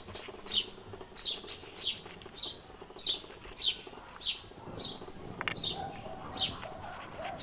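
A bird calling a short downward-sliding chirp over and over, about one and a half a second, with the soft rasp of garlic being grated on a flat metal hand grater underneath.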